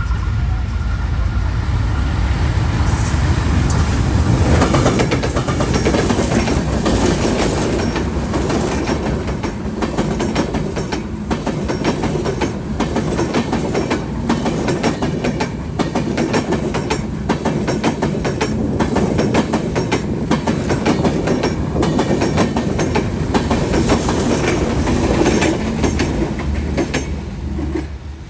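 Intercity passenger train of LHB coaches passing close by, its wheels clattering over rail joints in a steady clickety-clack over a loud rumble. The sound dies away near the end as the last coach goes by.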